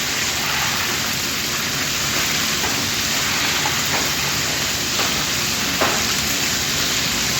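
Chicken pieces frying in shallow hot oil: a steady sizzle with a few faint pops.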